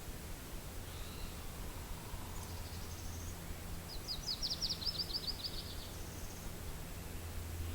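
Steady low wind rumble and hiss, with a small songbird singing a rapid high trill of about a dozen quick notes that lasts under two seconds, about halfway through; a couple of faint high chirps come earlier.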